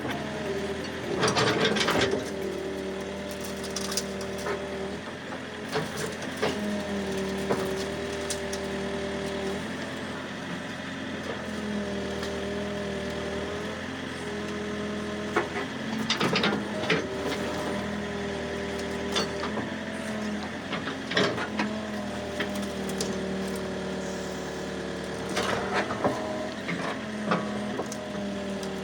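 A machine's engine running steadily, its pitch rising and falling in stretches as it works. Over it come intermittent sharp cracks and snaps of wood, loudest about a second in and again around the middle and near the end.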